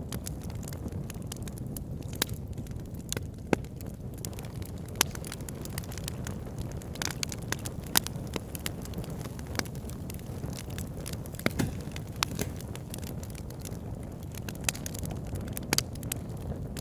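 Wood fire burning in a fireplace: a steady low rumble of flames with sharp, irregular crackles and pops scattered throughout.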